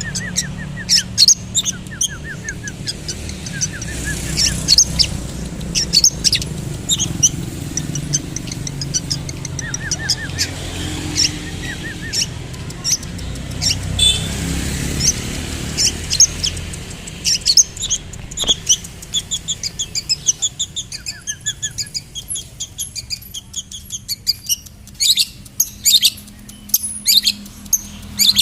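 Long-tailed shrike (cendet) singing: a fast, irregular stream of sharp chirps and short trills, with a quick run of rapidly repeated notes near the end. A steady low hum lies underneath.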